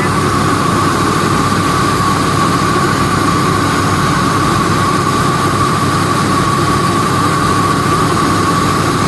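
Rice milling machinery running steadily: a loud, even drone with a steady whine.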